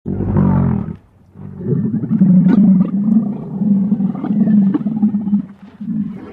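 Low-pitched calls of a large farm animal: a short call, then after a brief pause a longer, rough, wavering call lasting about four seconds.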